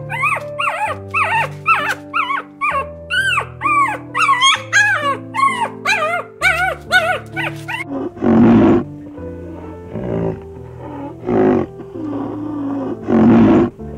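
A Labrador puppy whimpering in quick, high yelps that rise and fall, two or three a second, over background music. About eight seconds in, this gives way to three loud, rough roar-like calls from a large animal, a couple of seconds apart.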